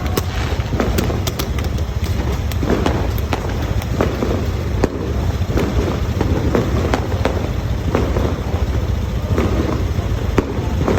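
Fireworks going off in rapid succession: a dense run of sharp cracks and bangs over a steady low rumble.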